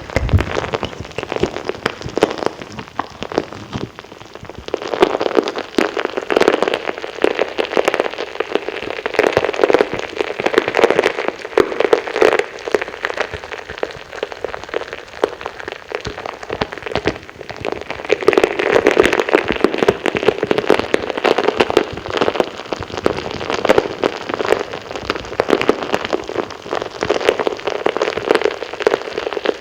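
Wet ASMR mouth sounds: a dense, continuous run of small clicks, pops and smacks that swells and eases now and then.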